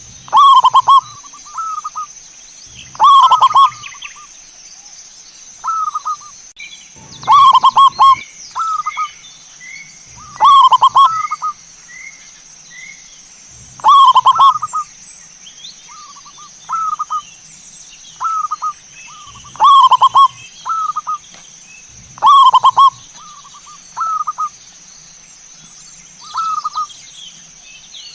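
Zebra dove (perkutut) cooing: loud, rolling coo phrases about every three seconds, with softer coos between them. A short run of higher, quieter notes sounds for a few seconds in the first half.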